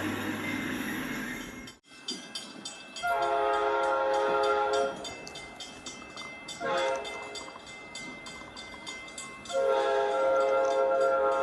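Amtrak P42DC diesel locomotive's chord horn. One horn sounds, then cuts off suddenly about two seconds in. After a short gap a horn gives a long blast, a short blast, then another long blast, with the rumble and hiss of the passing train underneath.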